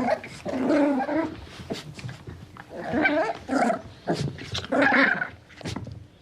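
Dog vocalizing in three separate bouts of about a second each, its pitch wavering within each bout.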